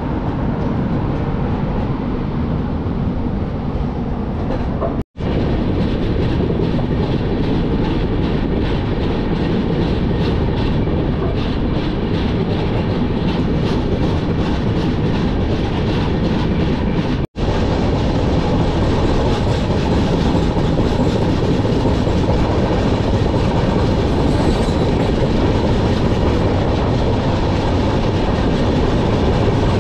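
Express passenger train running, a steady rumble with the wheels clattering rhythmically over the rail joints. The sound breaks off for an instant twice, about five and seventeen seconds in.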